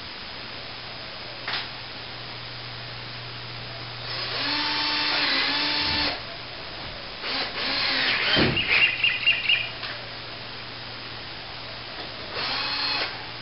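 Power drill driving screws into a plaster ceiling in three short runs, the motor's whine dipping in pitch as each screw bites. A quick run of clicks comes near the end of the middle run.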